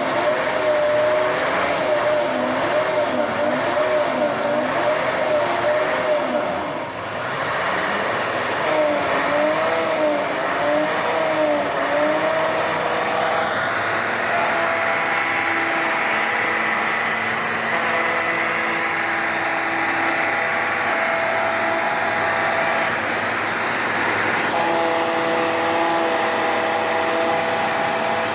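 Heavy logging truck's engine labouring under load, its revs swinging up and down about once a second, then held at steady high revs for the second half.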